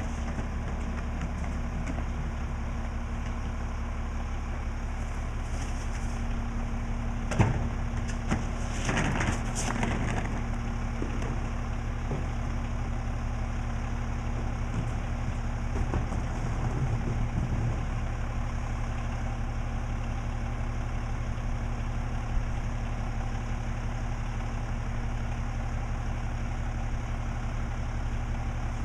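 Mack LE refuse truck's engine idling steadily, with a sharp knock about seven seconds in, a short stretch of clatter just after it, and another small knock near the end.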